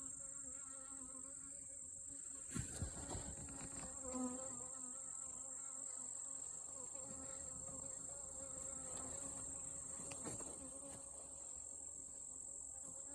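Honeybees buzzing around an opened hive: a steady, even hum. A few light knocks sound about two and a half seconds in and again near ten seconds.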